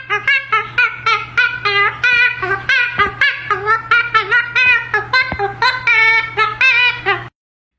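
A talking parrot vocalising a long, fast string of high-pitched notes that swoop up and down, with a steady low hum underneath. The notes stop abruptly near the end.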